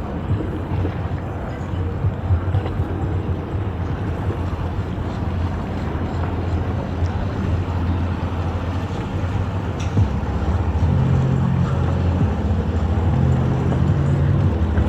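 Engine running steadily with a low rumble. Held tones that change in steps join it about ten seconds in.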